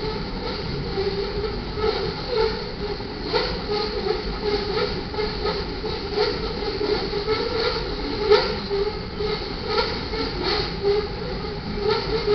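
Freight train of covered hopper cars rolling steadily past, steel wheels clicking irregularly over the rail joints, with one sharper clack about eight seconds in.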